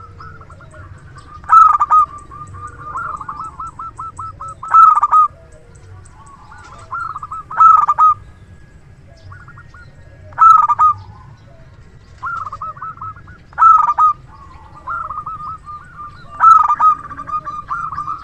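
Zebra dove (perkutut) singing: six loud phrases about three seconds apart, each trailing into a run of softer, quick repeated cooing notes.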